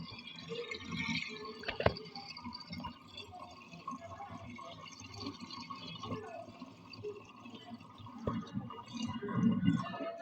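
Water swirling in a whirlpool vortex, with uneven liquid sounds and a sharp click about two seconds in.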